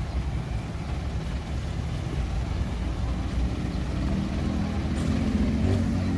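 Fire truck engine running with a low rumble; about three and a half seconds in a steady engine hum comes up and grows louder, rising a little in pitch.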